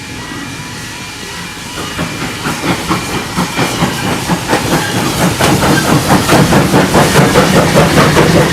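Two steam locomotives, Grant Ritchie No. 272 and Hawthorn Leslie "Linda", working a double-headed train with rhythmic exhaust beats and hissing steam, growing steadily louder as they approach. Level crossing alarm tones sound faintly at the start.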